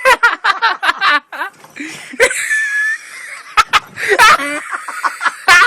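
People laughing: quick runs of short 'ha-ha' pulses at the start and again about four seconds in.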